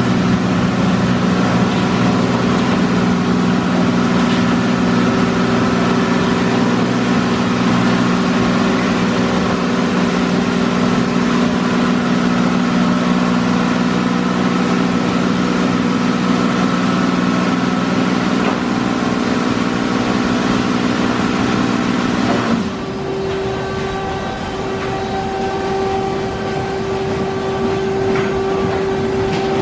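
Broadway all-cloth in-bay automatic car wash running over the car, heard from inside the car: a steady mechanical hum of motors and pumps. About 23 seconds in it switches abruptly to a quieter, higher hum as the machine changes stage.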